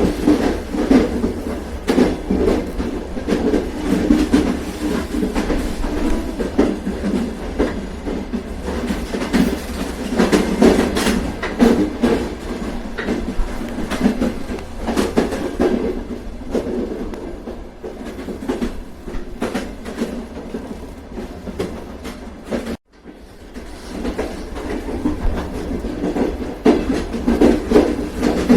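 Train running along the track: a steady rumble with irregular clicks and knocks from the wheels and rail joints. The sound cuts out suddenly for a moment about three-quarters of the way through.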